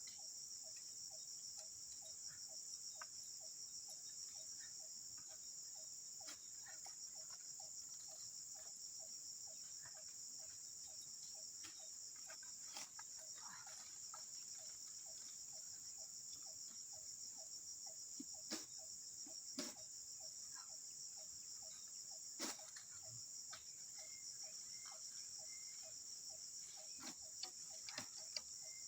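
Insects chorusing: a steady, high-pitched trill that is faint throughout, with a lower pulsing call repeating two or three times a second. A few sharp clicks or snaps come around the middle and near the end.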